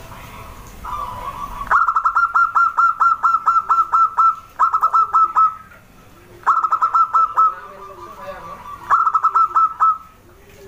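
Zebra dove (perkutut) singing: four bursts of rapid, short staccato notes, about six a second, between fainter held notes.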